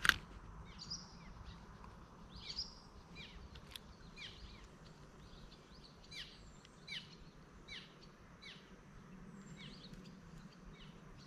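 A bird singing a long run of short, falling chirps, repeated every half second or so. A sharp click sounds right at the start.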